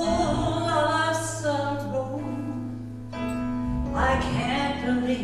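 Gospel vocal group singing a slow song over instrumental accompaniment, with long held notes.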